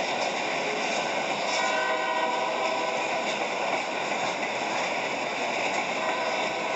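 CSX freight train of hopper cars rolling past a railroad crossing: a steady rumble and rattle of the passing cars, played back through a laptop's speakers.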